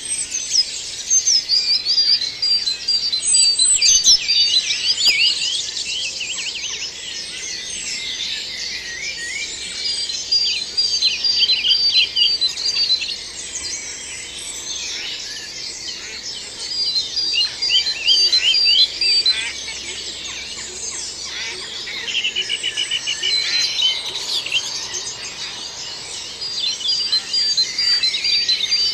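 Dawn chorus: many songbirds singing at once, with overlapping trills, warbles and rows of quickly repeated high notes that come and go, and a fast buzzy run of notes about two-thirds of the way through.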